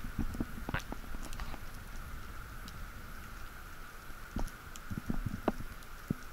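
Muffled underwater sound of a diver swimming with a speargun, heard through an action-camera housing: a low water rumble with scattered clicks and knocks, a cluster of them about a second in and more in the last two seconds, over a faint steady hum.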